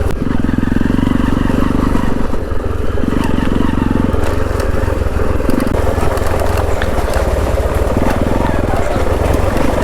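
Motorcycle engine running steadily at low speed while riding a rough, rocky off-road trail, with rattling from the ride.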